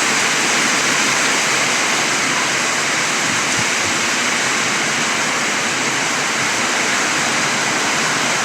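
Heavy rainstorm: a steady rush of pouring rain and running water.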